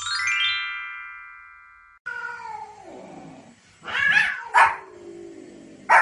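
A descending chime flourish rings and fades over about two seconds. Then a cat gives a long yowl that falls in pitch, and a small white spitz-type dog barks three times, the last bark the loudest.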